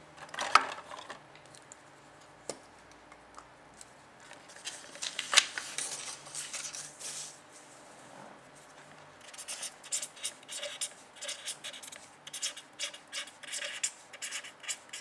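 Pen strokes scratching on a writing surface as a definition is written out: a few taps at first, a stretch of longer scratching in the middle, then a quick run of short strokes near the end.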